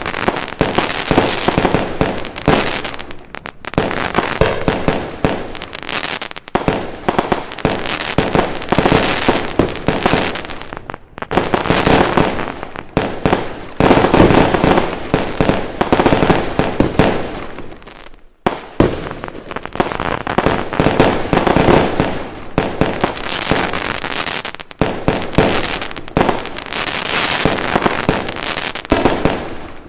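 Fireworks going off: dense volleys of rapid bangs and crackling, with short lulls between barrages.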